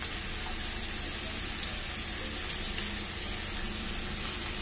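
Chopped bottle gourd sizzling in hot mustard oil, a steady even hiss of frying.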